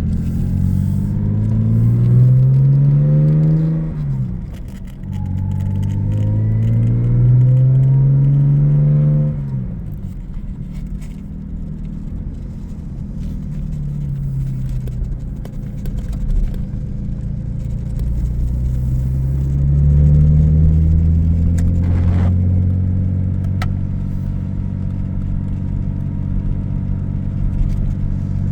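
1985 Jaguar XJS engine heard from inside the car, accelerating through the gears. The engine note climbs and drops sharply at an upshift twice. It then eases off, climbs again and settles into a steady drive.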